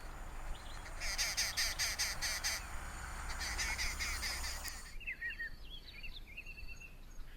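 Arrow-marked babblers calling together in a rapid, chattering group chorus for about four seconds, followed by a few short, separate chirps.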